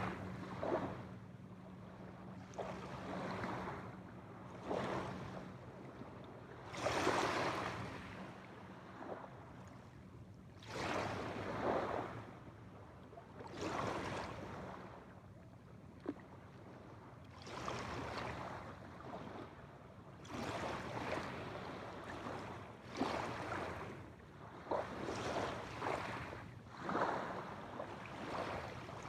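Small waves breaking and washing up on the shore, one swell every two to three seconds.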